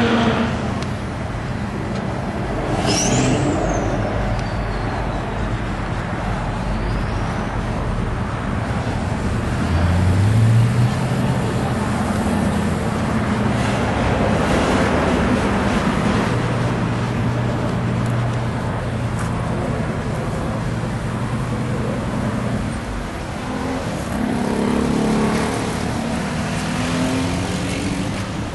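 Car engine idling steadily, with a brief rise in revs about ten seconds in.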